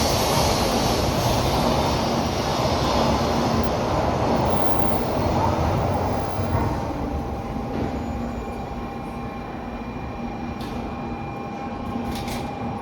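Shinkansen train moving along the platform with a loud rushing noise that dies down about halfway through, leaving a quieter hum with a few steady whining tones.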